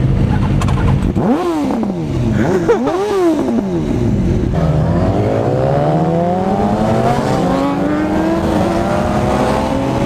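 Motorcycle engine on the ride: after steady running, it revs up and down quickly a few times, then from about halfway through pulls in one long, steady acceleration with its pitch climbing.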